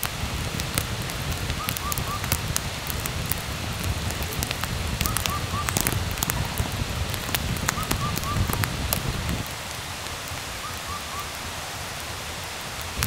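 Rain pattering on a tent or tarp: a steady hiss dotted with sharp drop ticks over a low rumble that eases about three quarters of the way through. A short three-note chirp repeats faintly about every three seconds.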